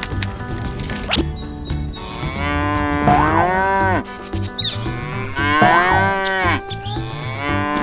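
A cow mooing twice, each moo a long call of about a second or more that drops in pitch at its end, over background music.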